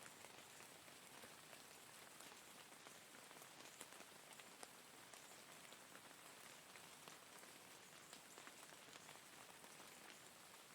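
Faint, steady rain falling, with many separate drops ticking on a surface.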